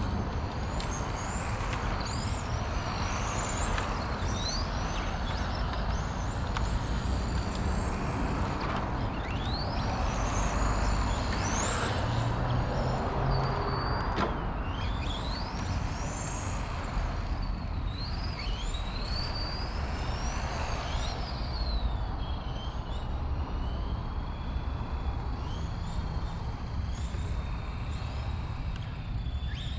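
XRAY FK05 RC car with a 13.5T brushless motor, driven in repeated bursts: a high whine rises and falls in pitch again and again as the car speeds up and slows down, over a steady rushing noise.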